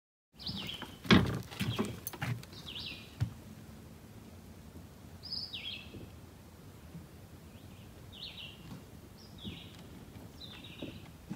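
A bird calling over and over in short high notes, about one a second, each stepping down in pitch. A few knocks or bumps come near the start, the loudest about a second in.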